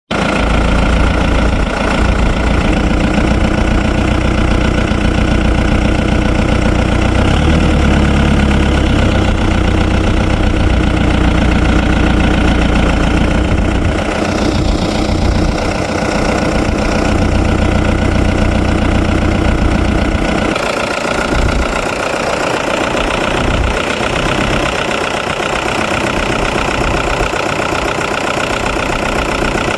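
New Holland TN90F tractor's diesel engine running steadily with a deep rumble. The low end rises slightly about eight seconds in and thins out noticeably about twenty seconds in.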